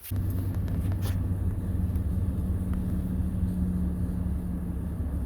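Steady low drone of a vehicle's engine and road noise, heard inside a moving car.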